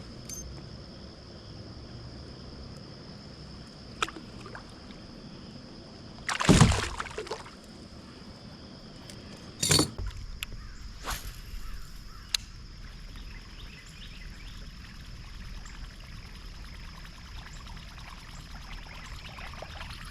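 Water splashing at a kayak: a loud splash about six and a half seconds in and another near ten seconds, with a few light knocks, over a steady high insect drone.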